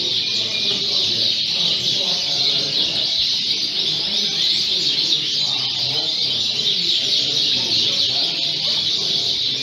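A hall full of Fife canaries chirping and singing together in a dense, unbroken chorus, with a murmur of people talking underneath.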